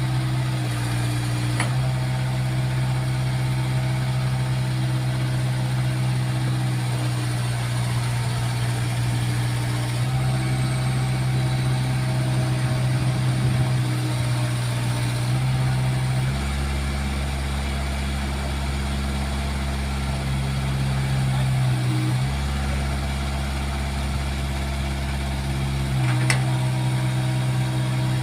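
Backhoe's diesel engine running steadily while the machine props itself up with its arm. Its note shifts as the load changes: a deeper tone comes in about 16 seconds in, drops out briefly around 22 seconds, then returns.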